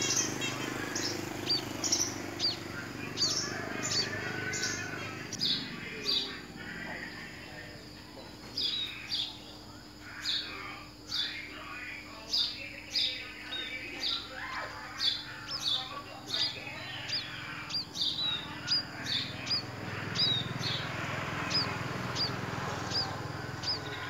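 Small bird chirping: a long run of short, high, down-slurred chirps, irregular at about one to two a second.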